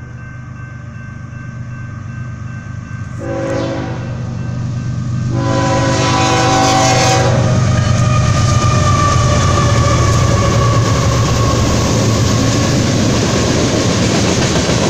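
BNSF diesel freight locomotives hauling a coal train sound the horn in a short blast about three seconds in and a longer one near six seconds in. Then the locomotives pass close by, loud and steady with engine rumble and wheel noise on the rails.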